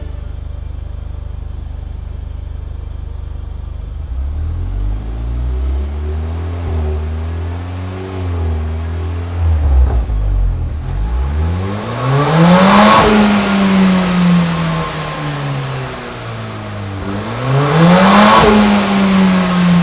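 Mercedes-AMG CLA45's turbocharged 2.0-litre four-cylinder breathing through an iPE aftermarket exhaust. It idles steadily, is lightly blipped, then is revved hard twice; each rev climbs quickly and falls back slowly.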